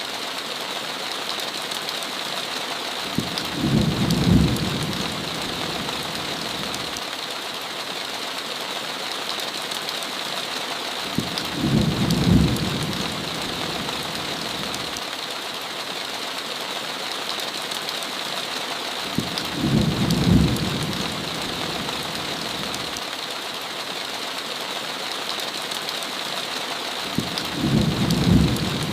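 Heavy rain falling steadily, with a short low rumble of thunder about every eight seconds, four times over.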